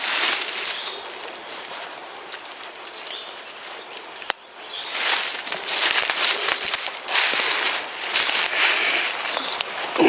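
Shot wild turkey gobbler flopping and beating its wings in dry leaves in its death throes: irregular bursts of rustling and flapping, easing off for a few seconds in the middle, then picking up again. A single sharp click about four seconds in.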